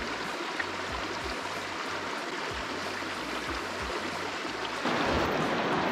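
Steady rushing of flowing river water, growing louder near the end.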